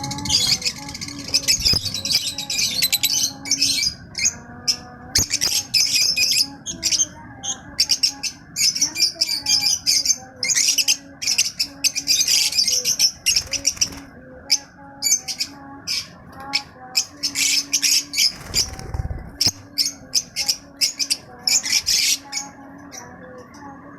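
Many small birds chirping and squawking at once, a dense chatter of short high calls with brief pauses. A steady faint low hum runs underneath.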